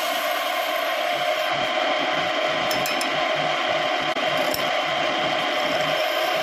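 Homemade wood lathe running steadily with a constant motor hum, with a few light ticks about three seconds in.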